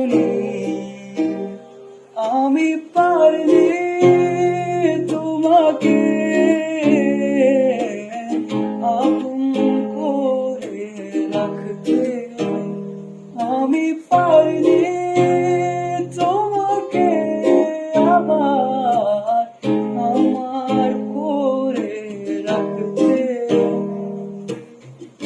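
Closing bars of an acoustic cover of a Bangla pop song: a plucked string instrument plays chords under a wavering wordless vocal melody.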